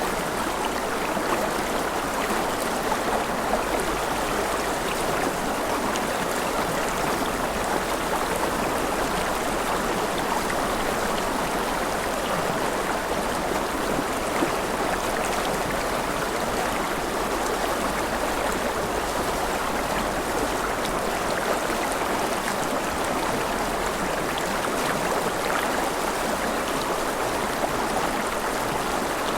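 Mountain river flowing over rapids: a steady rush of water.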